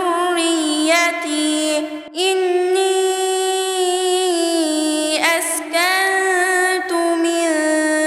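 A woman's voice reciting the Quran in melodic tajwid, holding long drawn-out notes that bend slowly in pitch. She takes a breath about two seconds in and briefly breaks off again near five seconds.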